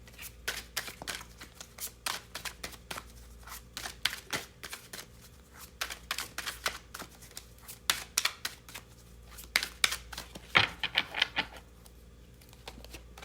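Tarot cards being shuffled and handled, a run of irregular light clicks and flicks, with a denser flurry about ten and a half seconds in.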